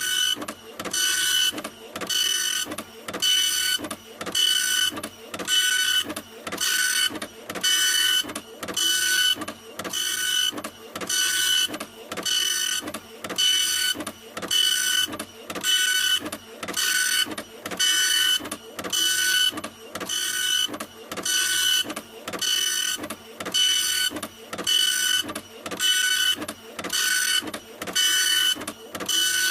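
A printer running in a steady, even rhythm of short mechanical strokes, a little under two a second, each stroke carrying a high whine.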